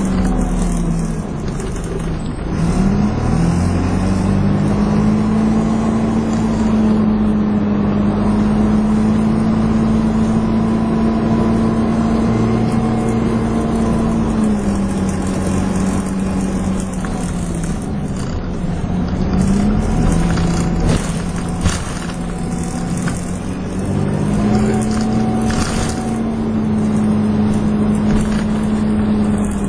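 Dennis Dart SLF single-decker bus engine running under way. Its note glides up and levels off several times and drops in between as the bus accelerates and slows. A sharp click comes about 22 seconds in.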